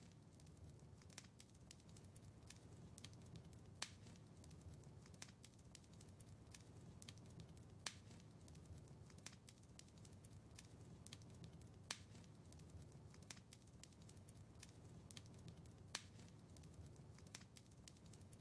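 Wood fire crackling faintly: a steady stream of small ticks and snaps over a low rumble, with a sharper pop about every four seconds.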